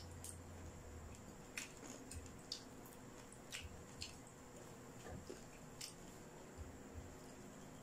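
Faint mouth sounds of people chewing crispy pata (deep-fried pork knuckle) eaten by hand, with half a dozen short sharp crackles scattered through it.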